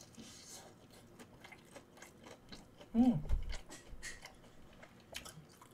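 Close-up chewing and crunching of a battered Korean fried snack (twigim), many small crisp crunches. About three seconds in, a short hum of the voice falling in pitch.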